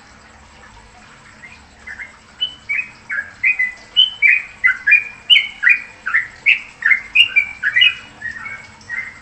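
A songbird calling in a rapid run of short, clear chirping notes, about three a second, starting softly and growing louder.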